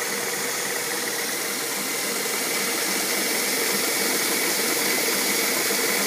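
2006 Mazda 6's 2.3-litre inline-four engine idling steadily, with a strong hiss; it grows a little louder about halfway through, heard close to the front belt and pulleys.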